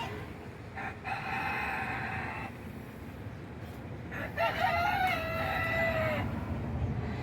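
Rooster crowing twice: two drawn-out crows, one about a second in and another, with a slightly falling end, about four seconds in.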